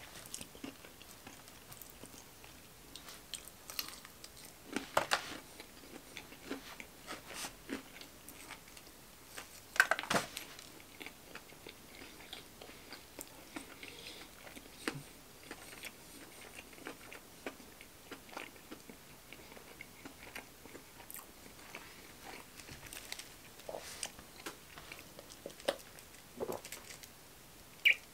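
Chewing and crunching of fried chicken fingers, with irregular crisp bites throughout; the loudest crunches come about five and ten seconds in.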